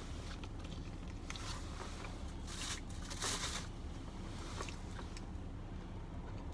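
Close-up eating sounds: biting into and chewing a sandwich on a Kaiser roll, with a few short crunchy bites about a third to halfway through, over a steady low hum.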